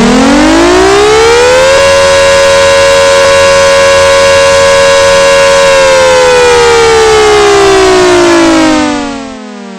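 Loud tornado warning siren sounding one tone: it winds up from low to a steady high wail about two seconds in, holds, then winds down from about six seconds in and drops away sharply near the end.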